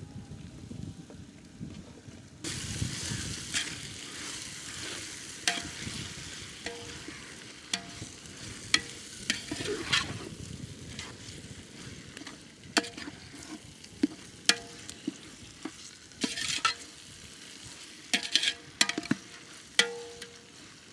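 Chopped tomatoes tipped into the hot, frying onion masala set off a sudden sizzle about two and a half seconds in. A ladle then stirs and scrapes the pot, with irregular sharp clanks that ring briefly.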